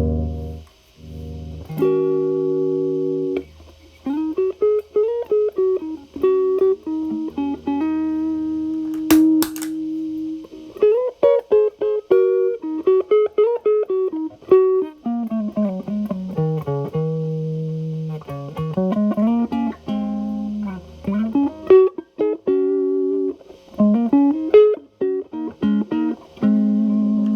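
Telecaster electric guitar played through an MI Audio Crunch Box distortion pedal, set at gain 10 and cleaned up, into a Marshall Valvestate's clean channel. It plays single-note lead lines with bends and slides, pausing briefly near the start and again about two-thirds of the way through.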